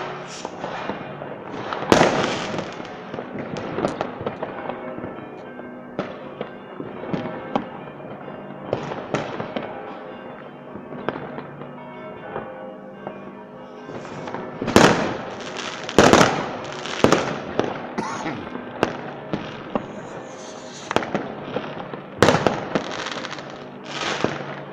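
Fireworks display: shells bursting with sharp bangs and crackle, the loudest about two seconds in, two more close together in the middle, and another near the end.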